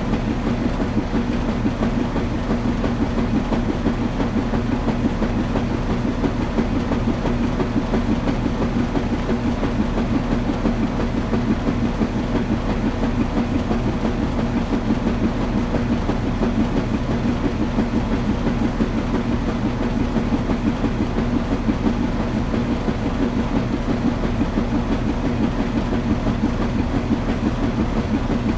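Washing machine running: a steady motor hum over a constant, fast-fluttering rumble, with no pauses or changes.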